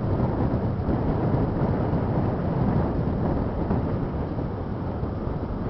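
Strong wind buffeting the microphone: a steady, loud low rumble with no let-up.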